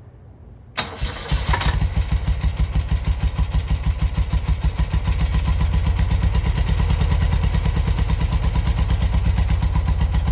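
1971 BMW R75/5's air-cooled flat-twin engine cold-started on a little choke: it catches about a second in and settles into a steady, evenly pulsing idle, running a little louder from about five seconds in.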